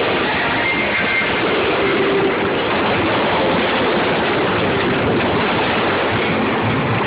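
Fireworks going off in a dense, continuous barrage, with the bangs and crackling blurring into one steady roar.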